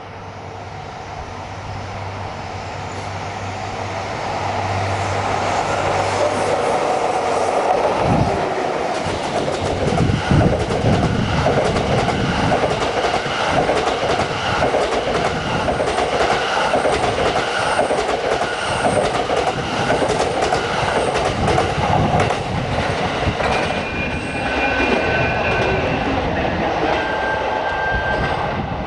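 A train passing at close range: it grows louder over the first several seconds, then a steady, loud clatter of wheels over rail joints as the cars go by. Brief high-pitched wheel squeals come near the end.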